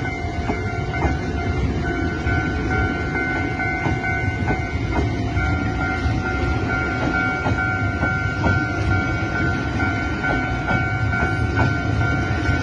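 Taiwan Railways Tze-Chiang express passenger cars rolling past close by: a steady rumble of wheels on rail with irregular clacks over the rail joints. The level-crossing alarm's steady tones keep sounding under it.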